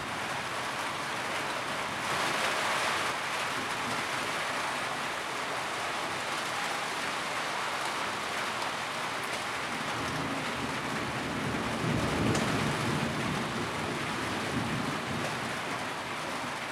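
Steady rain on a tin roof, an even dense patter that swells briefly a couple of seconds in. A low rumble builds about ten seconds in and fades a few seconds later.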